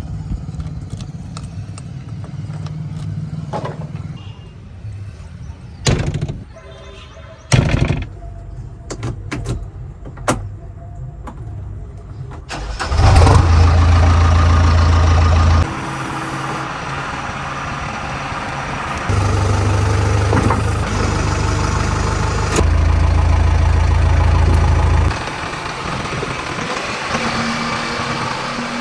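Diesel engines of heavy earth-moving machinery working. Early on there are two sharp knocks. From about halfway the engine note rises to a loud low rumble three times, each surge lasting a few seconds, as the machine comes under load, then settles back to a steadier run.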